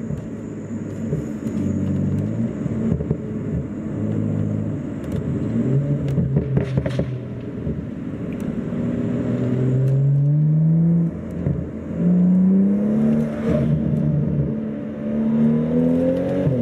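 BMW F30's N55 turbocharged inline-six, running an MHD stage 2+ tune, heard from inside the cabin accelerating at part throttle: the engine note climbs through a gear, drops at the upshift and climbs again, several times over.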